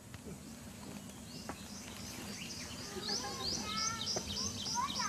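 Birds calling outdoors: from about two seconds in, a fast run of short, high, downward chirps, about four a second, over lower warbling notes.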